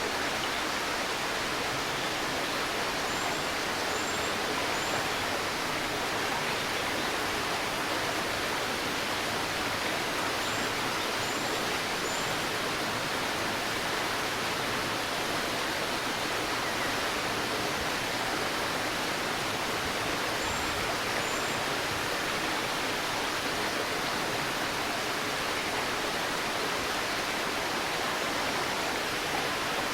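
Stream babbling steadily, with faint, high-pitched bird chirps in three short groups of two or three.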